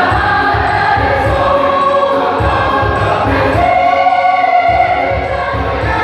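Church choir singing in several voice parts, with regular low thumps underneath. About halfway through they hold one long chord, then carry on singing.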